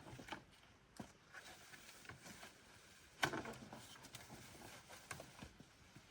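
Quiet, scattered light clicks and knocks of something being handled, with one louder knock about three seconds in.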